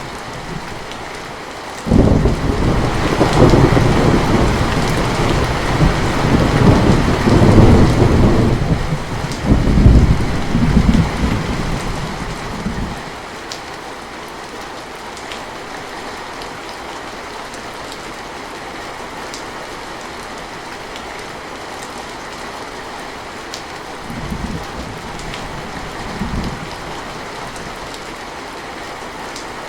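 Steady rain falling, with a loud roll of thunder that breaks suddenly about two seconds in and rumbles on for about ten seconds before fading. Two short, faint rumbles of thunder follow near the end.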